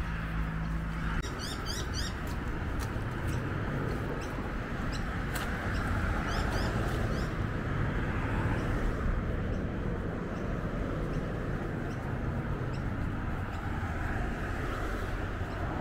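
Small birds chirping in short high rising calls, in several clusters, over a steady low rumble.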